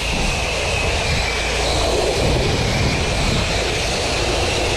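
Pressure-washing rig's engine and pump running steadily, with the hiss of a water spray.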